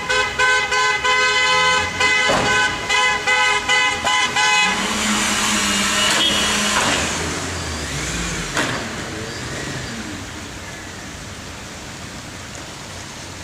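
Car horns honking in rapid short repeated blasts for the first four or five seconds, then steady noisy traffic sound that slowly fades.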